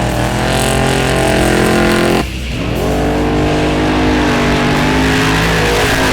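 Trophy truck engine accelerating hard, its pitch climbing, then dropping sharply about two seconds in before climbing again.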